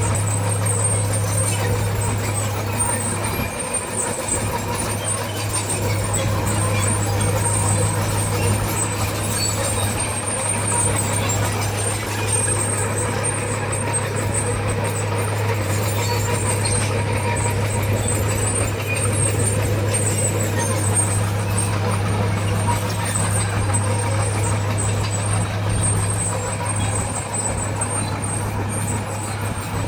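Heavy bulldozer diesel engine running steadily at a constant pitch, with a thin, high steady whine above it.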